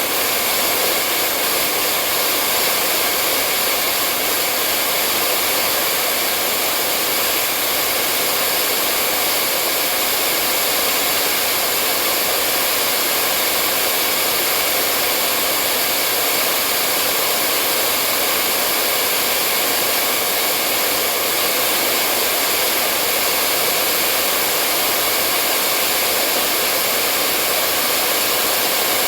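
Hair dryer running continuously, a steady high rushing airflow with a faint motor whine that does not change.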